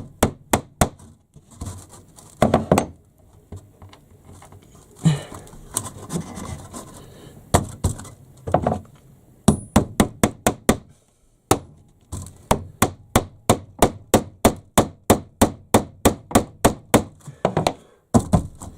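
Hammer blows on wood: a few scattered knocks, a stretch of wood scraping, then a long even run of strikes at about three a second through most of the second half.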